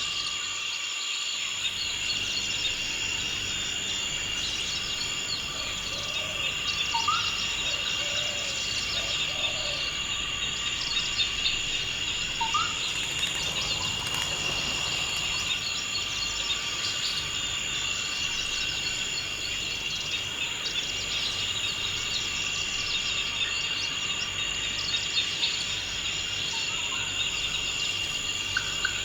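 Continuous chorus of crickets and other insects, a steady high trilling, with two short rising bird chirps in the first half.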